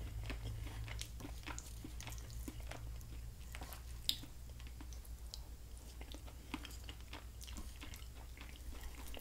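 Close-miked chewing and wet mouth clicks of a person eating a turkey dinner, with a sharper click about four seconds in. A steady low hum runs underneath.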